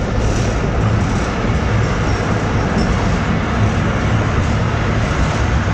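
Passenger train running along the track, heard from inside the carriage at a mesh-covered window: a steady, loud rolling noise with a low rumble underneath.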